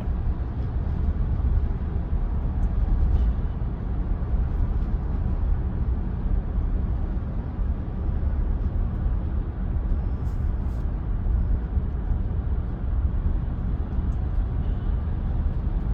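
Steady low rumble of road and tyre noise inside the cabin of an electric Tesla Model Y cruising at about 50 mph.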